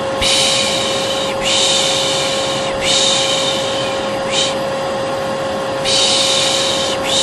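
A vacuum cleaner running steadily, with a repeated soothing 'shh' (piş piş) shush over it. Each shush lasts about a second and comes roughly every one and a half seconds, with one longer pause near the middle.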